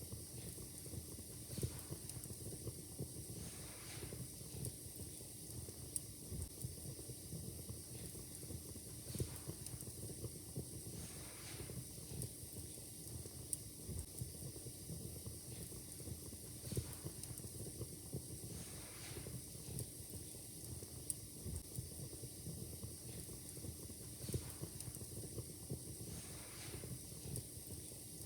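Wood fire in a fireplace crackling, with sharp pops scattered throughout and a brief soft hiss every few seconds.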